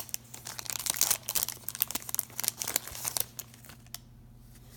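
Foil trading-card pack wrapper being crinkled and torn open, a quick run of crackles that dies away about three and a half seconds in, leaving a faint steady hum.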